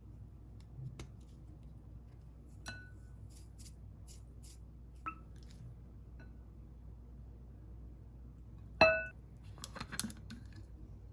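Tableware clinking: a few light clinks, then one loud ringing clink about nine seconds in, followed by a short clatter.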